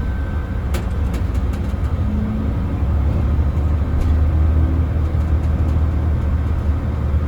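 Mercedes-Benz O307 city bus heard from inside the cabin while under way: a steady low diesel drone whose note and loudness rise a little about halfway through, with a faint click near the start.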